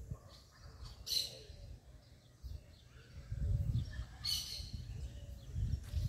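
Birds calling in the tree canopy: two short, harsh, high calls about three seconds apart over faint, lower repeated calls. A low rumble on the microphone sets in about halfway through.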